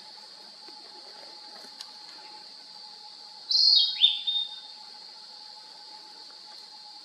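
Narcissus flycatcher (kibitaki) singing one short phrase about three and a half seconds in: bright whistled notes stepping and sliding downward. Under it runs a steady high-pitched buzz.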